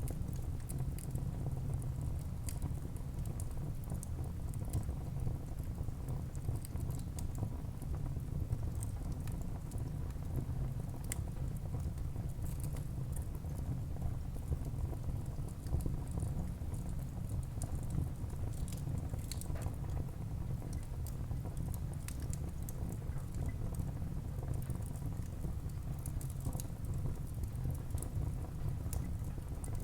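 Wood fire burning in a fireplace: a steady low rumble of the flames with frequent small, irregular crackles and pops from the burning wood.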